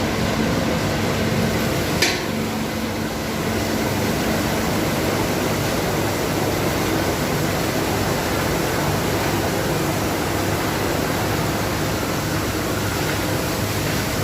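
Automatic car wash machinery running: a steady rushing noise like water jets or air blowers, with a low hum in the first few seconds and a single sharp click about two seconds in.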